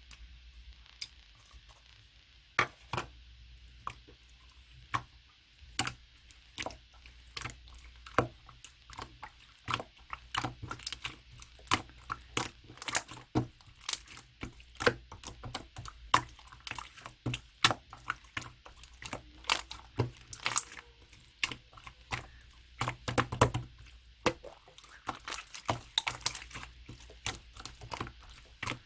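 Clear slime being squished and pressed by hand, giving wet clicks and pops from trapped air. The clicks come one at a time for the first ten seconds or so, then crowd together into a rapid stream.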